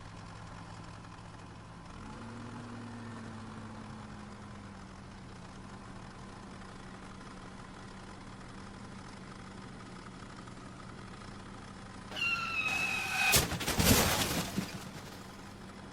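Steady low hum of a small motor, rising slightly about two seconds in. Near the end a brief high tone is followed by a loud crashing clatter.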